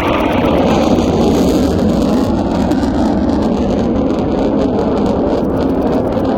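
Military fighter jet's engines roaring loudly during a low display pass, swelling over the first second and then holding steady.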